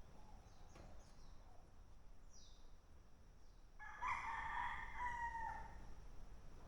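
A rooster crows once, about two seconds long, starting about four seconds in and falling in pitch at the end. A few faint, high, short bird chirps come before it.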